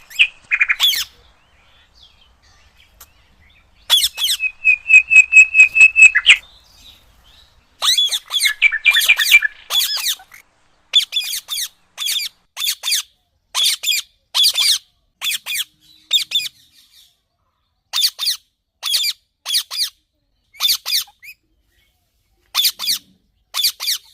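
Indian ringneck parrots (rose-ringed parakeets) calling: a quick run of about ten short repeated notes a few seconds in, then a long string of short harsh squawks, one or two a second.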